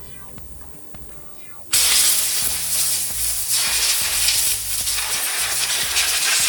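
A loud, steady hiss starts abruptly a little under two seconds in and keeps going, over background music.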